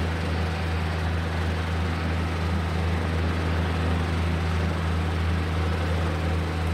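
Class 142 Pacer diesel multiple unit's underfloor diesel engine running, a steady low drone that holds even throughout.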